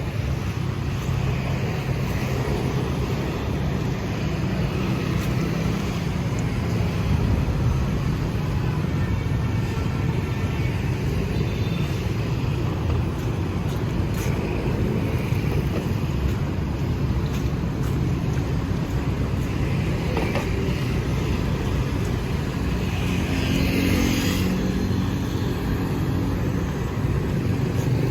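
Steady road traffic on a city street, a constant low rumble of passing vehicles, with a brief higher-pitched swell near the end.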